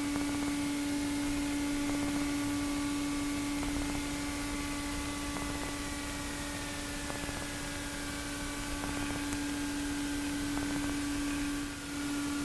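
Cockpit noise of a Pipistrel Virus SW light aircraft heard through the headset intercom: a steady hum and hiss from the engine and propeller running at low power after landing. One tone slowly falls in pitch through the middle.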